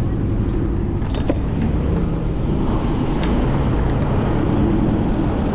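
Road traffic noise from dense, slow city traffic: cars running close by, with a steady low rumble.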